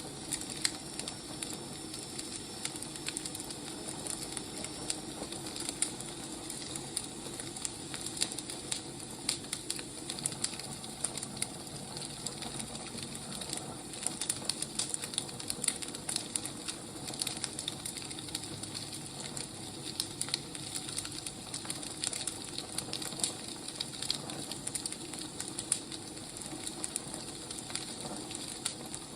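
A wood fire crackling: a steady hiss with frequent irregular pops and snaps from burning logs.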